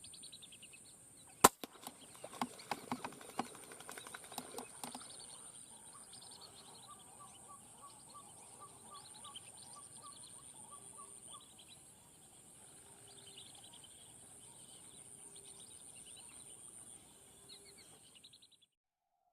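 Lesser whistling ducks calling: repeated short chirping whistles over a steady high whine. A single sharp click comes about a second and a half in, with a few fainter clicks after it.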